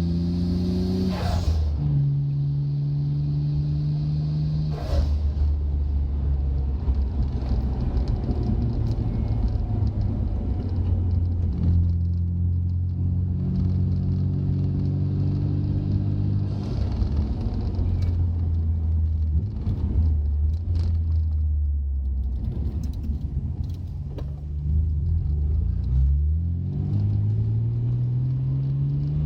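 Nissan Skyline GT-R's twin-turbo RB26 straight-six engine driving on the road. Its pitch drops at gear changes about a second in and again near five seconds, holds steady while cruising, and rises as the car accelerates near the end.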